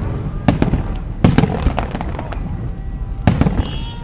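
Aerial fireworks shells bursting in sharp bangs that come in close pairs: about half a second in, again around a second and a quarter, and a little after three seconds.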